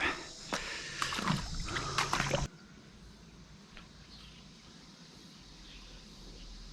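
Stream water running, with close clicks and knocks of handling over it for the first couple of seconds; then it cuts abruptly to a faint, steady rush of flowing water.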